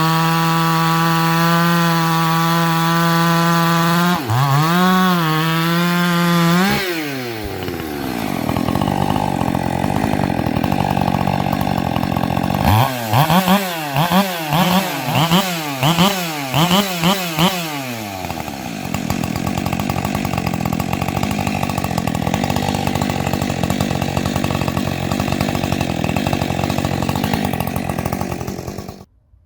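Muffler-modified Husqvarna 564 XP two-stroke chainsaw held at a steady high full-throttle scream, then wavering in pitch and dropping back. About halfway through it is blipped about six times in quick succession, then it runs at a low speed until it cuts off abruptly near the end as the engine is switched off.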